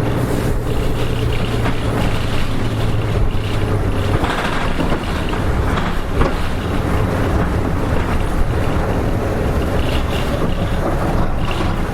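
Nissan Diesel RM medium-size city bus (KK-RM252GSN) heard from inside the cabin: its diesel engine runs with a steady low hum, and the engine note changes about four seconds in, while road and rattle noise go on underneath.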